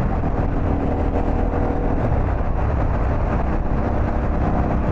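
Harley-Davidson Pan America's V-twin engine running at road speed under heavy wind rush on a helmet-mounted microphone; the engine note shifts about two seconds in.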